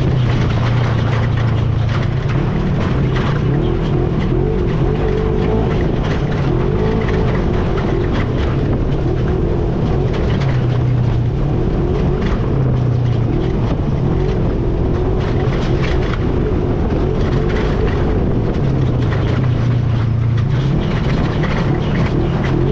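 All-terrain vehicle (ATV) engine running steadily while being ridden, its note wavering a little with the throttle.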